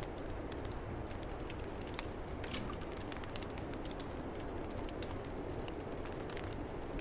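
Wood fire crackling in a fireplace, with scattered pops, over a steady low rush of snowstorm wind.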